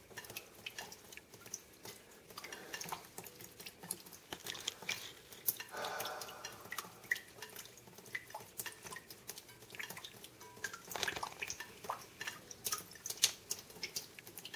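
Rainwater leaking in at the joint between a bay window and the wall, dripping irregularly with many sharp taps; the sign of a failed seal between window and wall during hard rain. A brief pitched sound comes about six seconds in.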